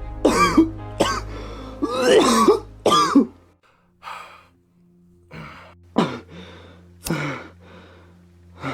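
A man's strained non-speech vocal sounds: coughs and heavy, halting breaths, strongest in the first three seconds and then trailing off into a few fainter bursts, over a low music drone.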